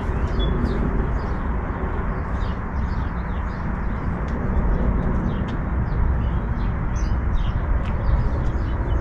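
Small birds chirping over and over, high and short, above a steady low outdoor rumble.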